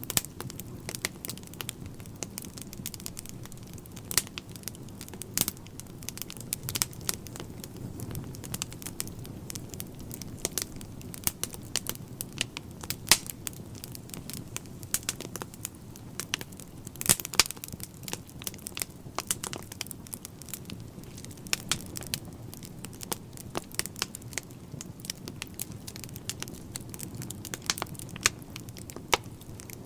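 Wood fire burning in a fireplace: a constant low rumble of the flames with many sharp, irregular crackles and pops from the burning logs.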